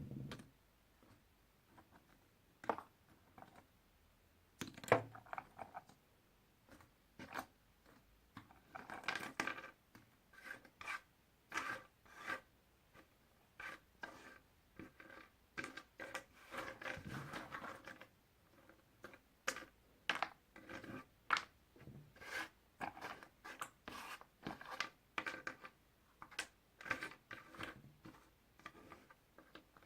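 Puzzle pieces being handled: irregular light clicks and short rubbing scrapes, with a longer stretch of rubbing about halfway through.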